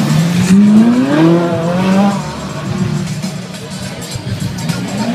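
Sports car engine revving as the car pulls away, its note rising sharply, then dropping and holding lower, over the noise of a crowd. Another engine note starts near the end.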